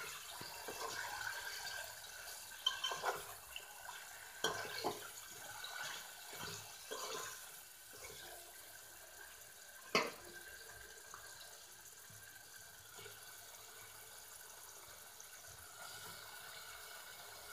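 Paneer cubes frying in shallow oil in a metal pan: a steady, soft sizzle, broken by a few sharp knocks and scrapes against the pan as the cubes are stirred and more are tipped in. The sharpest knock comes about ten seconds in.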